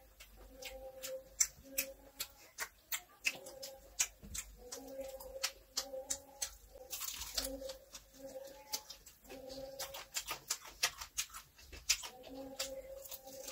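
Close eating sounds: wet chewing and lip smacks, many quick clicks, as chicken is eaten by hand. Behind them a low tone repeats in short phrases.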